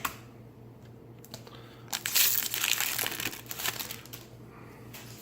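Foil wrapper of a Magic: The Gathering booster pack crinkling for about two seconds as it is handled and opened, starting about two seconds in, after a few light clicks of cards being handled.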